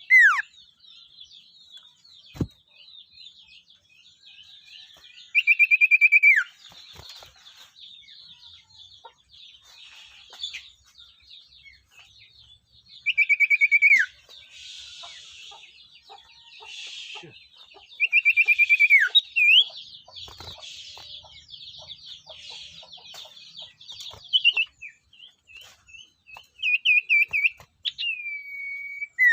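Spotted owlets (sirtu) calling: four loud bursts of rapid, high, churring notes, each about a second long and falling away at the end, over near-continuous high twittering chatter.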